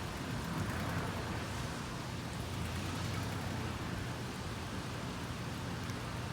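Rain falling steadily, an even hiss with a low steady rumble underneath.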